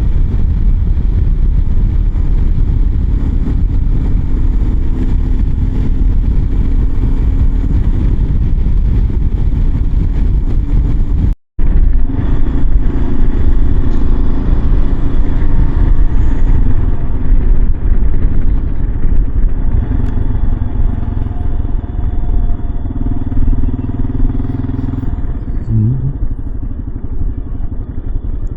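Kawasaki KLR 650 single-cylinder motorcycle running steadily at road speed, with heavy wind noise. The sound cuts out briefly a little over a third of the way through.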